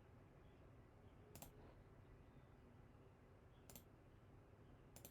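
Computer mouse clicking three times, sharp and short, about a second and a half in, near four seconds and at the very end, over a faint low hum.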